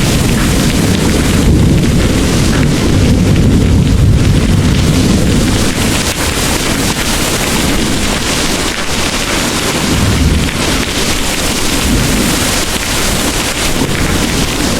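Heavy rain pouring steadily, with low rolling thunder rumbling through the first few seconds and swelling again briefly later on.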